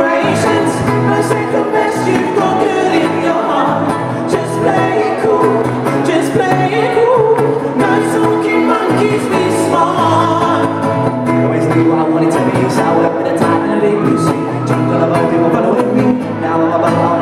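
A live band performing a pop song: singing over instruments, with a steady beat.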